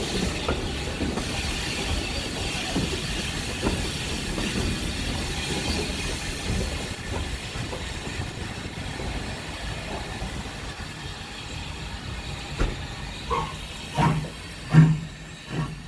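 Heritage train running along the line: a steady rumble with wheels knocking over rail joints and a high hiss that fades through the middle. A few short, louder knocks come near the end.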